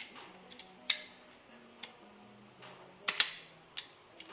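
Sharp mechanical clicks and clacks from a 1958 VW Beetle semaphore turn indicator being worked on the bench, its solenoid-driven arm snapping out and dropping back. One near the start, one about a second in, and a quick cluster around three seconds in; the loudest come about a second in and just after three seconds in.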